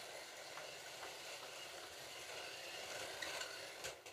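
Slot cars running on a plastic track: a steady whirring hiss from their small electric motors and pickup braids. There is a sharp click near the end.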